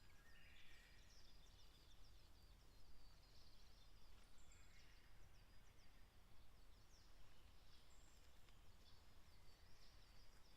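Faint, distant small birds calling: many short high chirps and quick falling notes, over a low steady background rumble.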